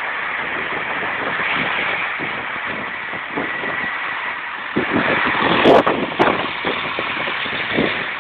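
Train engines running in a railway station: a steady rumbling hiss with a faint high whine in the first half, and two sharp knocks a little after the middle, the first louder.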